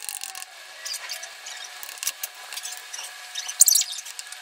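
A metal utensil scraping and clinking against the inside of a stainless steel pot as boiled potatoes are mashed, with a louder cluster of scrapes about three and a half seconds in. A faint steady hum runs underneath.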